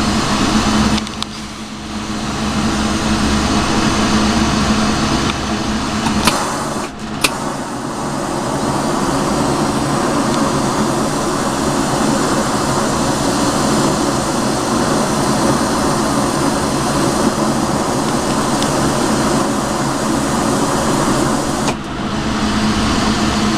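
Steady roar of a glassworking torch flame over a low steady hum, with two sharp clicks about six and seven seconds in.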